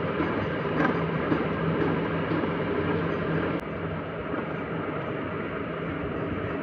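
Workshop machine running steadily with a low hum and dense noise, a sharp click about three and a half seconds in, after which it runs slightly quieter.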